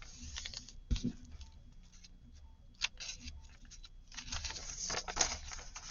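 Sheets of paper being handled on a work table: rustling and light taps, with a soft thump about a second in and heavier rustling over the last two seconds.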